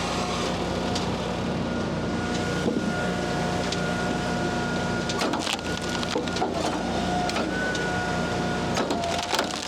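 Small diesel tractor running steadily with a thin whine while it works through a DPF regeneration cycle, with several hard knocks and thuds of wood rounds being rolled.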